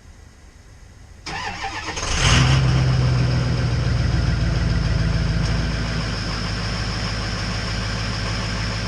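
Ford 6.0 Powerstroke turbo-diesel V8 cranking on the starter about a second in, catching about a second later with a loud flare, then settling to a steady idle.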